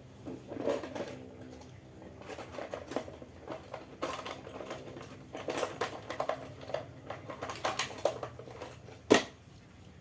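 Hands working at an electric fan's wiring: an irregular run of small clicks, taps and rustles, with one sharp, loud click near the end.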